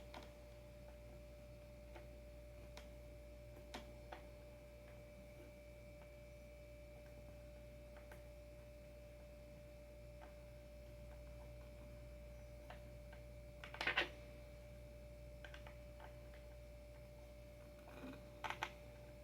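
Sparse, faint clicks and clinks of bolts and adapter hardware being handled during a surfskate adapter installation, with a louder burst of clicks about two-thirds of the way through and another short cluster near the end, over a faint steady hum.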